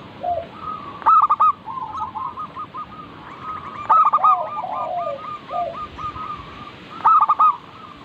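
Zebra doves (perkutut) cooing: a nearer bird gives a short loud run of staccato coos three times, about three seconds apart, over the quieter continuous cooing of other doves.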